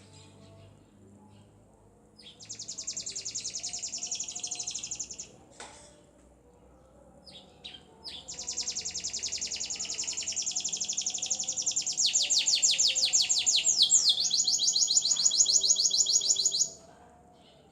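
F1 Lizard × local canary hybrid singing. It gives two bouts of fast, rolling trills of rapidly repeated high notes, the first about three seconds long and the second about eight. The second bout grows louder partway through and switches to a new trill near its end.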